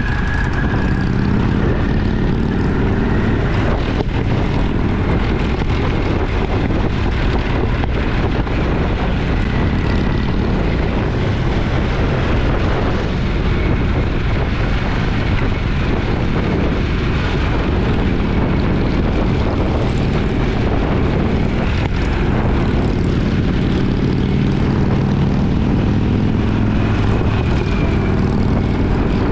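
Twin-cylinder motorcycle engine running steadily under way, with small changes in engine note.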